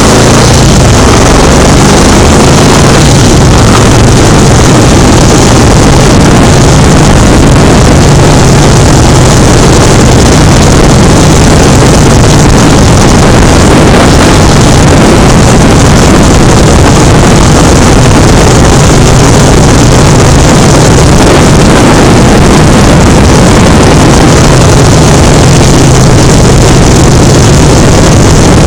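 An engine running steadily with a low hum under a loud, even rushing noise that does not let up.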